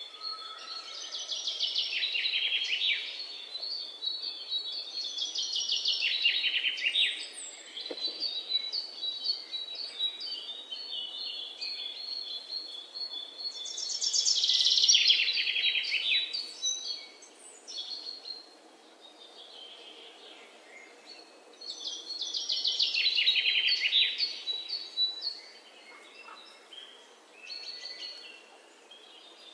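A bird singing: four loud descending trills, each about two seconds long, with a run of short, even chirps between the second and third.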